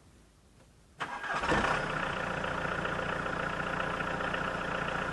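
Carburettor engine started on the choke with no exhaust pipe fitted: about a second in it cranks briefly, catches, and settles into a steady idle.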